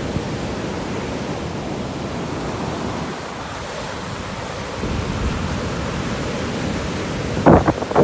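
Ocean surf rushing steadily, a little louder from about five seconds in. Near the end, gusts of wind start buffeting the microphone.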